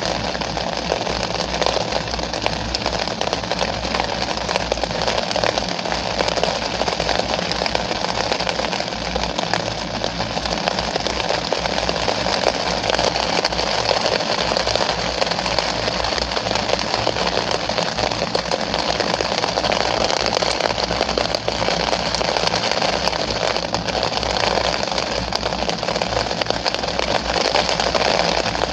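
Steady rain falling, an even hiss of many small drop impacts with no change in strength.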